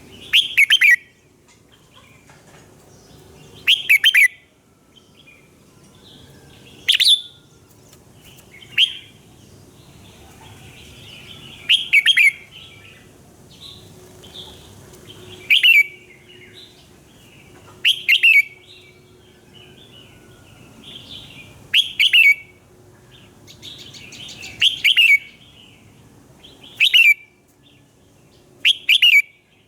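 Red-whiskered bulbul singing short, loud, quick warbled phrases, one every two to four seconds, with softer twittering in between.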